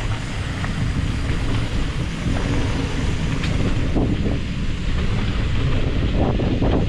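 Wind buffeting the microphone, a loud, steady rumble, with a few light knocks and ticks, most of them near the end.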